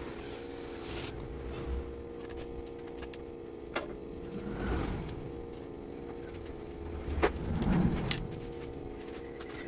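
Small plastic building-set pieces being handled: scattered sharp clicks and rattles, busiest about seven to eight seconds in, over a steady low hum.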